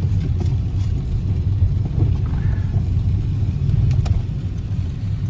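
Chevy step van driving, a steady low engine and road rumble heard inside the cab, with a couple of faint clicks.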